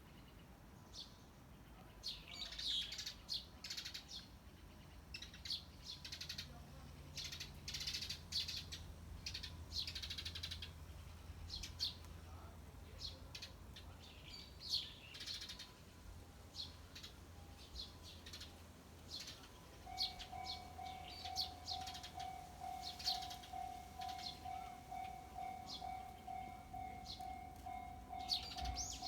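Several small birds chirping and tweeting, short high calls coming thick and fast, over a faint low rumble. About two-thirds of the way in, a steady, faintly pulsing tone sets in beneath the chirps.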